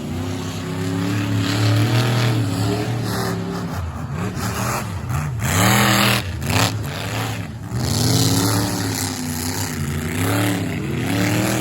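Monster truck engines revving hard in a side-by-side race, the pitch climbing and dropping again and again as the trucks are driven.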